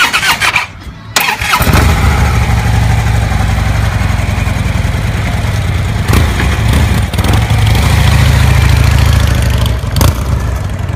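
Harley-Davidson V-twin motorcycle started: a short burst of cranking, then the engine catches about a second and a half in and runs steadily, loud and low. The bike pulls away near the end.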